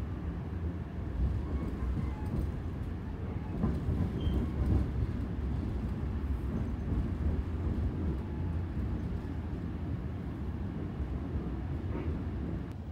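Passenger train running at speed, heard from inside the coach: a steady low rumble of the wheels and running gear on the rails.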